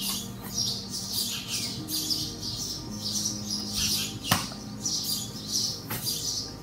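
Small birds chirping rapidly and repeatedly over a few held low notes, with one sharp click about four seconds in.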